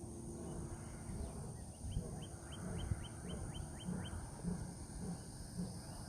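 A songbird sings a quick run of about nine clear, downslurred whistled notes, roughly four a second, over a steady high insect drone and a low rumble of wind on the microphone.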